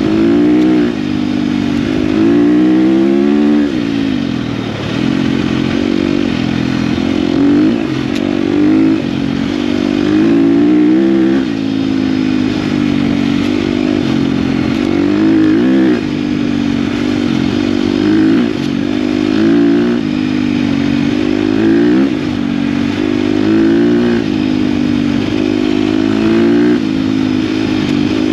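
KTM dirt bike engine running under load while riding, its pitch rising and falling every couple of seconds as the throttle is worked and gears change.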